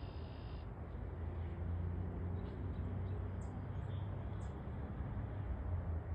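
Outdoor ambience of steady hiss and low rumble, with a small bird giving a few short, very high chirps about a second apart in the second half and a brief higher call right at the start.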